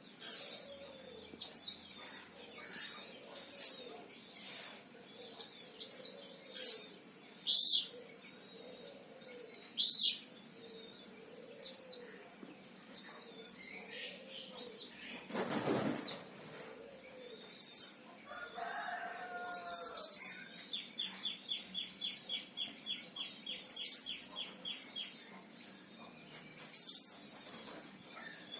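Mantenan Himalaya songbird singing: loud, short, high chirps and whistled notes every second or two, with a fast, even, dry trill running underneath from about two-thirds of the way in. A brief whoosh about halfway through.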